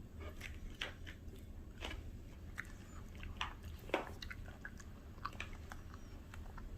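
Bichon Frise dog chewing a crunchy piece of raw produce: irregular wet crunches and bites, the loudest about four seconds in.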